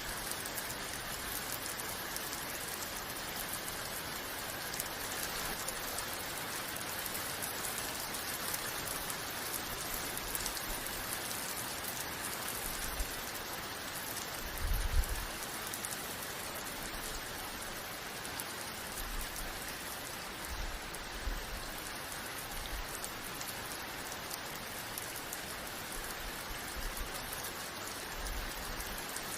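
Steady rain falling and pattering on a surface, an even hiss with no let-up. A few brief low thumps come through it, the loudest about halfway.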